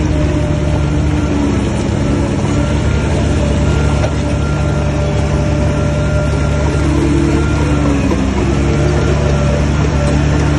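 Shantui bulldozer's diesel engine running steadily, with a steady whine above it. The engine note dips briefly about eight seconds in.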